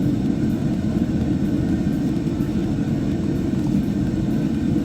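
Steady low rumble with no distinct events: a constant background noise.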